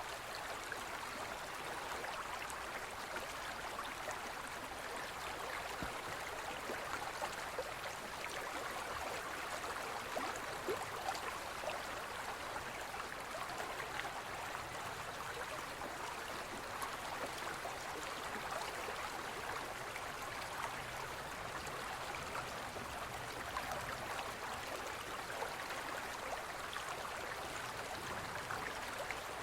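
Gentle forest stream flowing, a steady babble of water.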